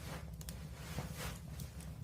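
Wood fire burning in a fireplace: a steady low rumble with a faint hiss and a few soft crackles about a second in.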